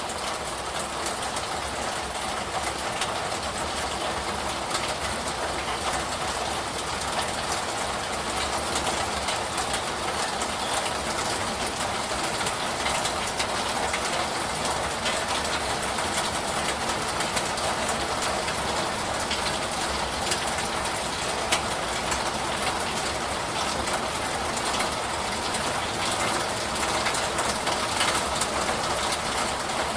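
Steady, heavy rain: an even rush of water with a dense patter of individual drops.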